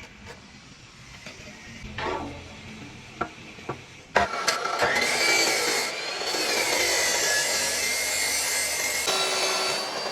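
A few light knocks, then about four seconds in a small high-speed electric motor starts abruptly and runs with a whine that wavers slightly in pitch and a rasping, grinding noise.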